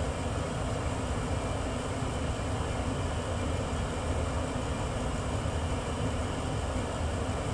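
1994 Tempstar SP80 gas furnace running with its burners lit, a steady even rumble that is strongest low down.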